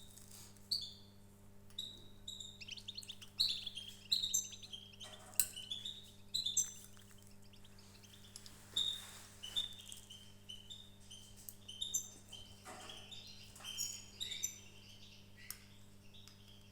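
Small birds chirping and twittering in many quick, high, overlapping calls, with a steady low hum underneath.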